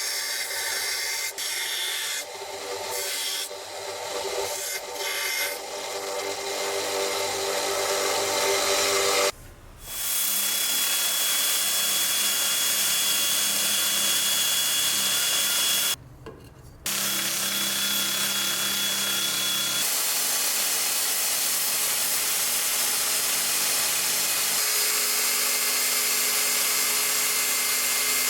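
Irregular rubbing and scraping strokes of hand tool work for about nine seconds. After a brief break, an electric power tool runs steadily to the end, stopping once for about a second partway through.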